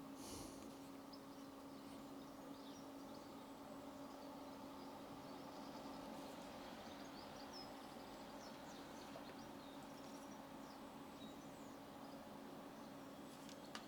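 Quiet room tone with a steady low hum and faint, scattered bird chirps.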